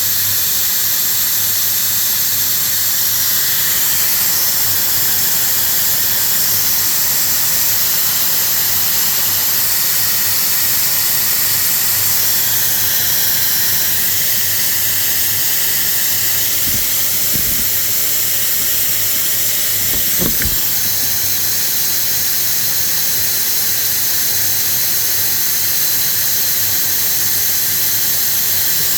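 Steady loud hiss of air during an exhaust leak test on a 2002 Ford F-150, with a low hum underneath. Two brief low thumps come a little past halfway.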